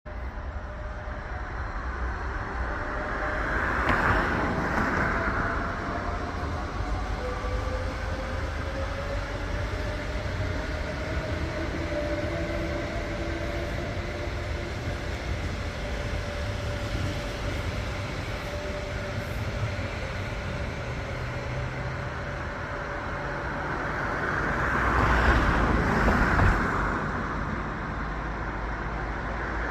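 Renfe Class 447 electric multiple unit pulling away from a station, its traction motors whining with a pitch that slowly rises as it gathers speed, over the rumble of wheels on rail. The noise swells louder twice, about four seconds in and near the end.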